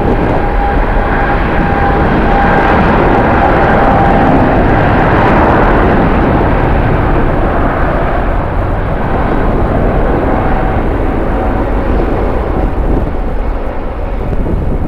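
Jet airliner's engines, a loud, steady rumble with a thin high whine over it. The whine fades out about two-thirds of the way through and the rumble slowly eases off near the end.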